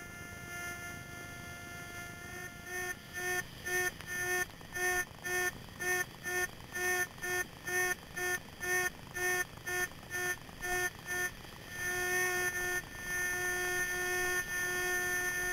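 An electronic tone of one fixed pitch. About two and a half seconds in it starts pulsing on and off roughly three times a second, and near the twelve-second mark it settles into a long held tone.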